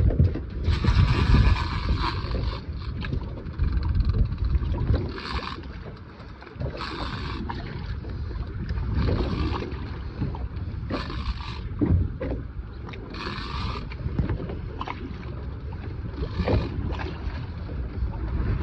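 Wind buffeting the microphone on a boat at sea, an uneven low rumble, with short hissing bursts every two seconds or so.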